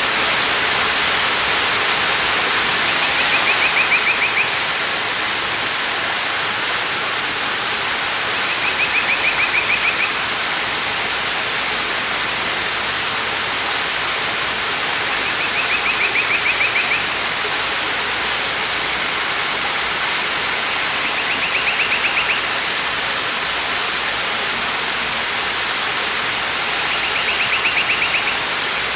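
Waterfall: water falling, a steady rushing noise. Over it a short high trill sounds five times, once every five to six seconds.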